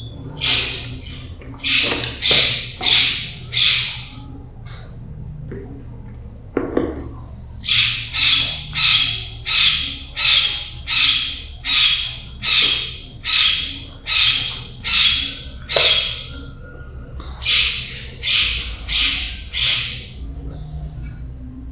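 A bird giving harsh, evenly spaced squawking calls about every half second: a short run of four near the start, a long run of about fourteen in the middle, and a few more near the end.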